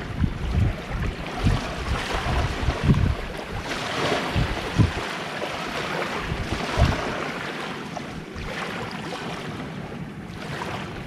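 Gentle sea waves washing on the shore, with gusts of wind buffeting the microphone in irregular low rumbles.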